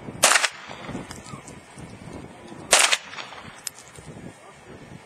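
Two sharp gunshots about two and a half seconds apart.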